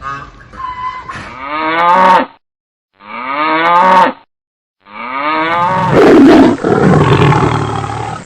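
Cow mooing: three loud moos, each rising in pitch, the last one the longest.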